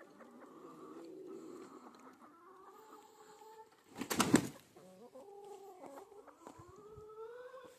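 Several domestic hens clucking and making drawn-out, overlapping calls, some rising in pitch near the end. A short, louder rustle or thump sounds about four seconds in.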